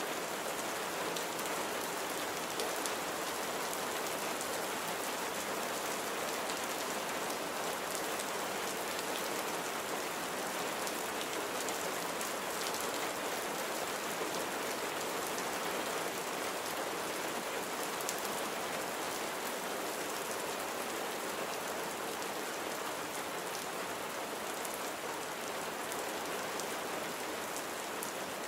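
Steady rain falling and pattering on surfaces, an even hiss with fine drop ticks throughout.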